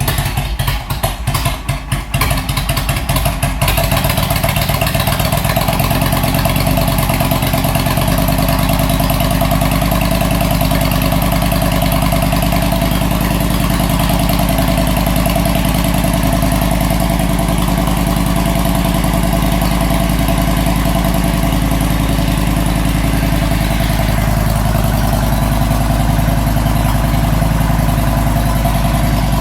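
2006 Honda VTX 1300R's V-twin engine idling cold through aftermarket Hard Krome exhaust pipes, started with the choke off and idling too low. For the first few seconds it runs unevenly in ragged, irregular beats, then settles into a steady idle about four seconds in.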